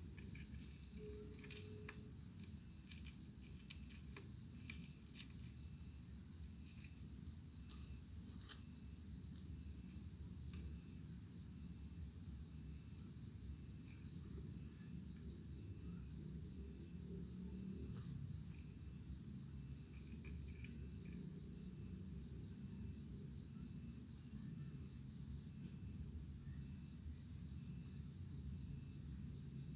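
Cricket chirping in a continuous, rapidly pulsing trill on one high steady pitch, with a fainter overtone above it.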